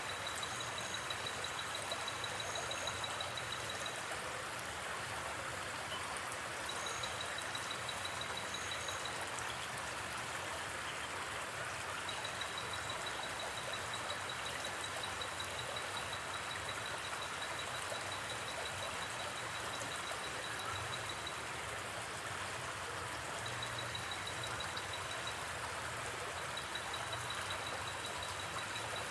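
Steady rush of a gently flowing river. A high, rapidly pulsed night-insect trill comes and goes in runs of several seconds, with a few short higher chirps in the first third. Light campfire crackles tick faintly under the water.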